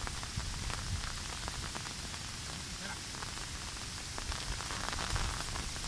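Steady rain falling: an even hiss dense with the taps of individual drops.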